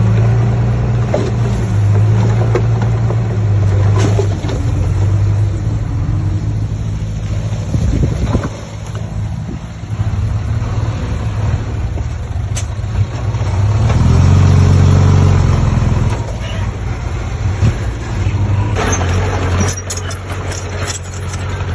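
Diesel engine of heavy earthmoving machinery running steadily, revving up for a couple of seconds about two-thirds of the way through, with a few sharp knocks near the end.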